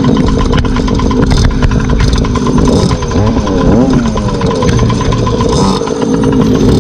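Small two-stroke gas scooter engines running steadily, with the pitch rising and falling a few times around the middle.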